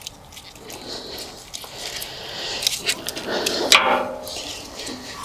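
Hand work on a backhoe fuel hose: small metallic clicks and scrapes as a hose clamp is loosened and the rubber hose is worked over a fitting nipple. About three and a half seconds in there is a louder, brief whine-like squeak.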